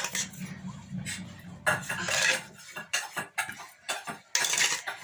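Spoon clinking and scraping against a bowl while mixing chopped jyamir citrus with yogurt and salt, with many short clinks and two longer scraping stretches.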